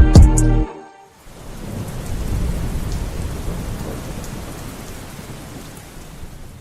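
Rain sound effect with a low rumble of thunder, swelling in after the music stops and slowly fading out. The song's final drum hits and chord end in the first second.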